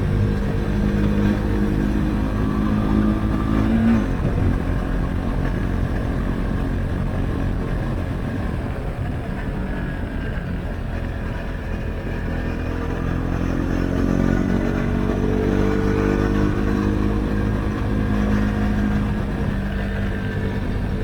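Husqvarna Svartpilen 401's single-cylinder engine running through an Akrapovic exhaust with the dB-killer removed, heard while riding. The engine note rises and breaks off about four seconds in, runs less distinctly under a steady low rumble for several seconds, then comes back strong about two-thirds of the way through.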